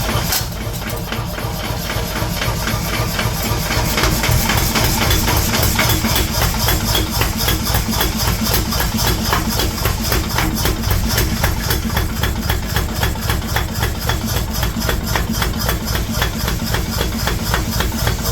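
A workshop machine running with a fast, even beat, mixed with background music.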